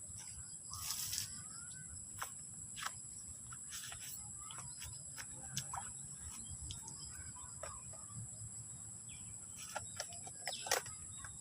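A steady high-pitched insect drone, with a few short bird calls and scattered light clicks.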